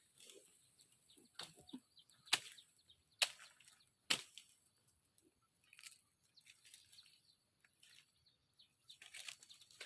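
Leaves and brush rustling, with four sharp cracks about a second apart, like branches snapping or being chopped.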